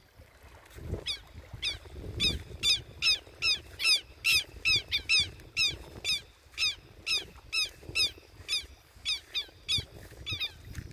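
A bird calling over and over: a long run of short, falling, pitched notes, about two a second, starting about a second in and loudest in the middle.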